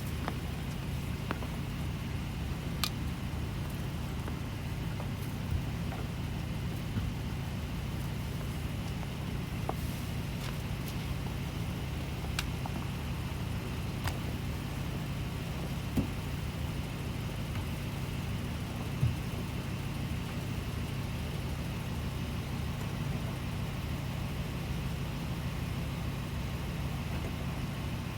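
Car engine idling with a steady low hum, with a few scattered small clicks and knocks over it.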